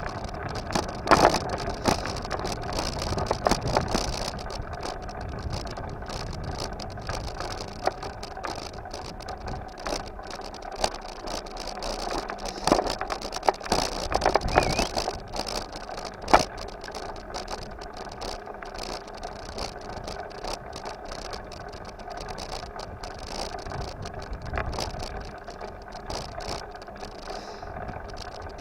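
Bicycle being ridden over rough ground: its frame and parts rattle and clatter continuously over steady road noise, with sharper knocks about a second in, around thirteen to fifteen seconds in, and about sixteen seconds in.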